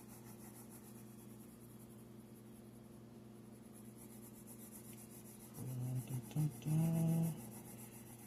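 Pencil shading on paper: soft, repeated rubbing strokes of graphite over a faint steady low hum. About five and a half seconds in, a man gives a short wordless hum, the loudest sound.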